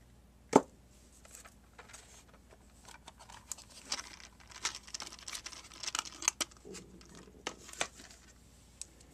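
Rummaging by hand among small hard objects: one sharp knock about half a second in, then a long run of light clicks, clacks and rustles.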